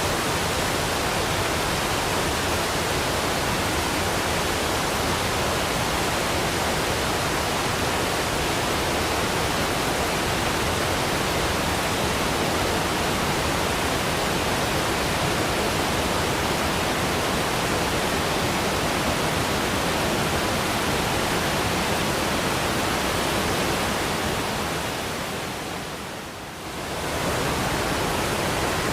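Waterfall: a steady, full rush of falling water. It dips briefly near the end and comes straight back.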